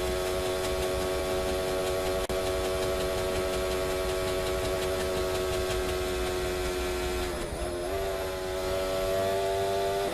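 A steady mechanical drone at one held pitch, like a motor running at constant speed. It cuts out for an instant about two seconds in and briefly dips in pitch and recovers near the three-quarter mark.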